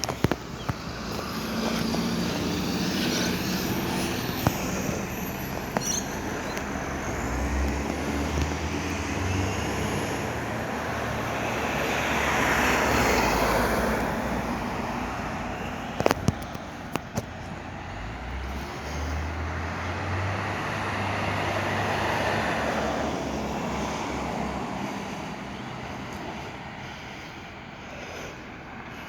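Dennis Eagle garbage truck's diesel engine running, its revs rising and falling twice with swells of noise. There are a few sharp clicks about halfway through.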